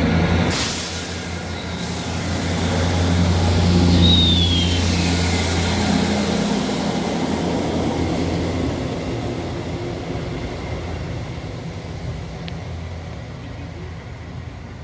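Class 159 diesel multiple unit's underfloor diesel engines running with a steady low note, then fading away as the train pulls out. A short falling squeal comes about four seconds in.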